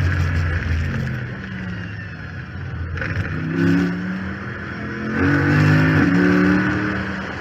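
2014 Chrysler 300 SRT8's 6.4-litre HEMI V8, heard from the hood scoop, easing off and then pulling hard up through the revs twice, with a quick upshift between the pulls and another near the end. A steady high whine sits above the engine, which the owner puts down to the failed power steering pump, over rushing wind.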